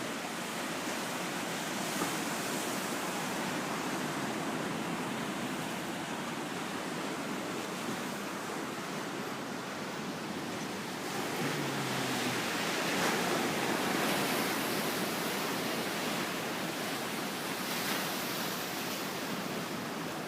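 Sea surf washing onto the beach, a steady rush of waves that swells louder around the middle and then eases.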